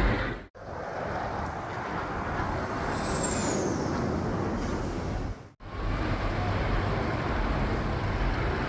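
Jet engine noise from Thunderbirds F-16 Fighting Falcons flying the display, a steady rushing sound that cuts out abruptly twice, about half a second in and again past five seconds.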